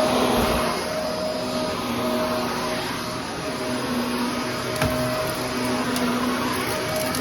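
Vacuum cleaner running steadily with a constant motor hum, with one small knock about five seconds in.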